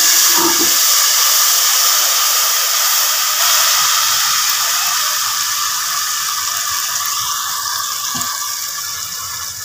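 Spices and ginger-garlic paste frying in hot mustard oil in a steel pot: a steady sizzle that slowly dies down as the masala roasts.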